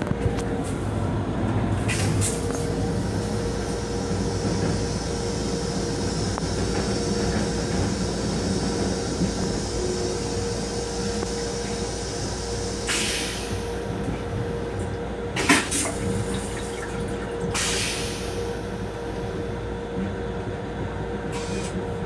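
Steady running rumble of a Metro-North M7 electric railcar in motion, heard from inside the car. A steady hum and a high hissing rush set in about two seconds in; the hiss fades about halfway through, and a few short, sharp noises follow in the second half.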